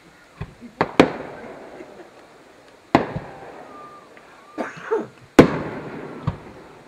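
Aerial firework shells bursting overhead: about seven sharp bangs at uneven intervals, each followed by an echoing tail. The two loudest come about a second in and about five and a half seconds in.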